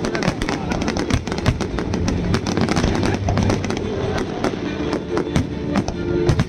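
Aerial fireworks bursting in rapid, continuous succession, a dense run of sharp bangs and crackles, over loud music playing.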